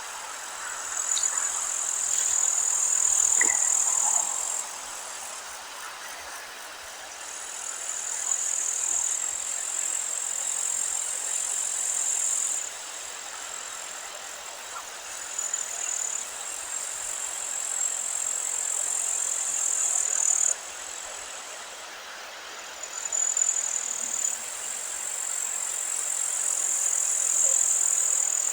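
Meadow insects stridulating: a high, thin, continuous trill that runs in bouts of several seconds, stopping and starting again. Under it is a light hiss of wind, and a few faint bird notes come in the first few seconds.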